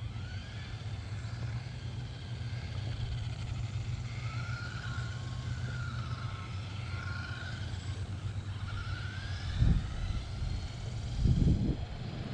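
Redcat Volcano 18 V2 1/18-scale electric RC monster truck driving, its motor and gears whining with a pitch that rises and falls with the throttle over a steady low hum. Two short thuds near the end.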